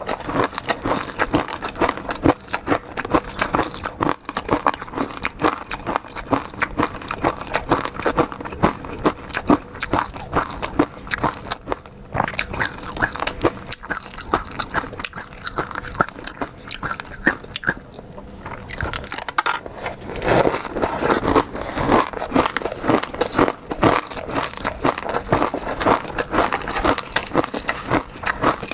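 Close-miked eating sounds: continuous chewing and biting with many small crackly clicks and pops, fuller and denser about two-thirds of the way through.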